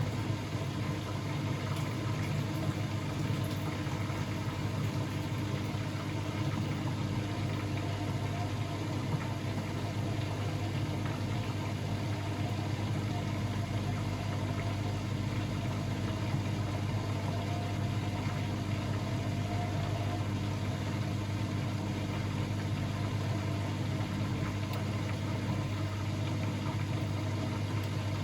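Blomberg WAF 7442 SL washing machine running with a steady, unchanging low hum.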